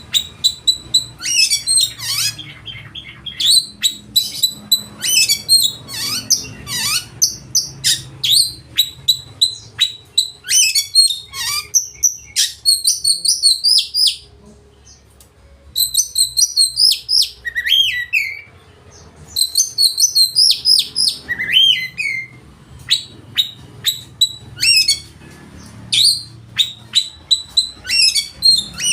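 Oriental magpie-robin (kacer) singing loudly: a fast, varied run of whistles, chirps, trills and mimicked calls, broken by two short pauses a little past the middle.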